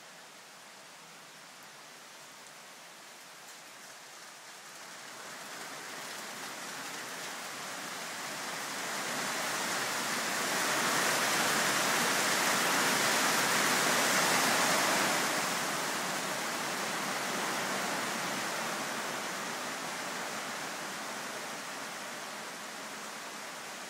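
Rain falling steadily, building to a heavier downpour about halfway through and then easing off somewhat.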